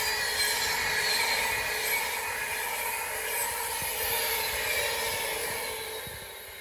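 Class 390 Pendolino electric train passing through at speed: the rush of wheels on rail with a steady whine that drifts slowly lower in pitch, fading away over the last couple of seconds as it goes.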